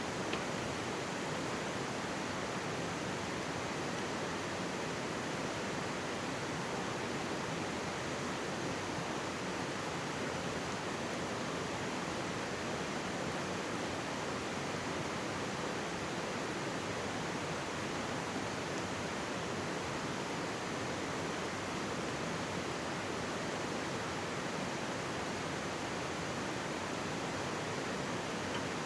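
Mountain stream rushing steadily over rocks, an even constant wash of water.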